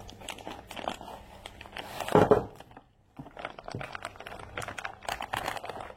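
Rustling and rapid small clicks of parts and tools being handled at close range, with a louder scraping burst about two seconds in and a brief pause about a second later.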